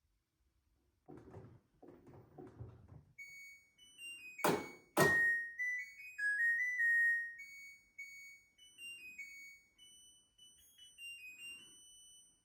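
LG washing machine playing its electronic beeping melody, a tune of short pure tones stepping up and down, as heard when the wash cycle has finished. A few dull thuds come near the start, and two sharp loud clicks come about a second into the tune.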